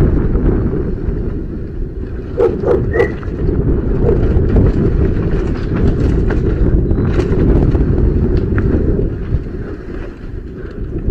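Wind rumbling over the microphone of a bicycle rider on the move, with a few sharp clicks about two and a half seconds in.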